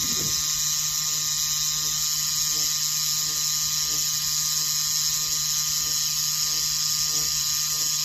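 Scalp micropigmentation machine running with a steady motor buzz as its needle dots a rubber practice pad, with faint regular pulses about twice a second.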